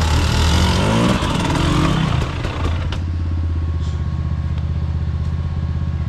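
Trail motorcycle engine revving, its pitch rising and falling, with rattling clatter for the first two to three seconds. It then settles to a steady, lower, evenly pulsing engine note.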